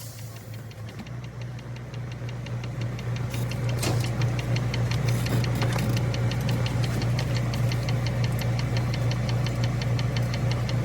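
Engine running steadily, a low hum with a fast, even ticking over it, growing louder over the first few seconds and then holding.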